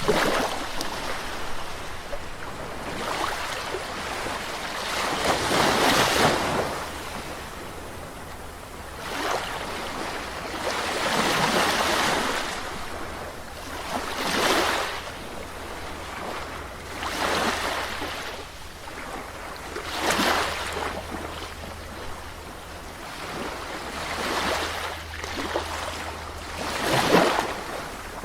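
Sea waves breaking and washing onto a shore, one swell after another, each surging up and fading every few seconds.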